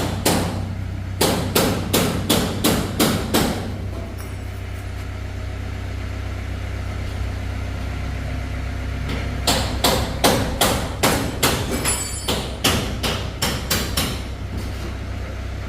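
Hammer blows on a vehicle's damaged bodywork, in two runs of about two or three sharp strikes a second with a pause of several seconds between, over a steady low hum.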